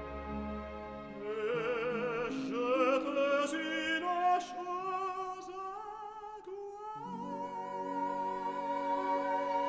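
Operatic aria: a solo voice with wide vibrato sings a phrase that climbs in pitch over orchestral accompaniment, then settles on a long held note as the orchestra swells beneath it about seven seconds in.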